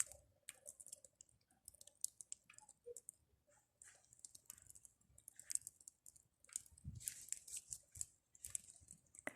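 Small wood fire of pruned tree branches crackling faintly, with many irregular quick pops and snaps as the fire burns low.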